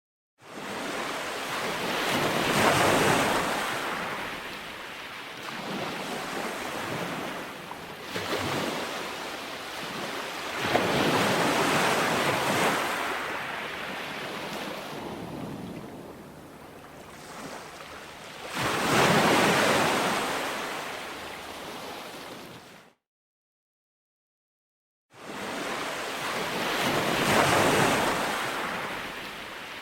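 Ocean waves breaking and washing up a beach, each surge swelling and then receding, about every eight seconds. The sound cuts out abruptly to dead silence for about two seconds after the third wave.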